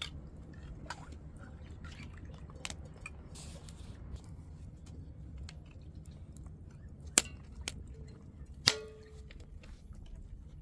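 Scattered light clicks and knocks of hard objects over a low steady hum, with two sharp knocks about seven and nine seconds in; the second is a clink that rings briefly.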